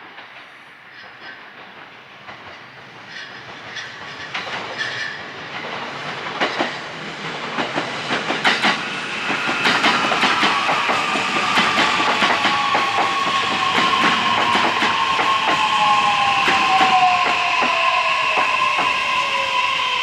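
JR East E131 series electric train running past, getting louder over the first ten seconds, with the clickety-clack of its wheels over rail joints. An electric motor whine runs under it, one tone falling in pitch through the second half.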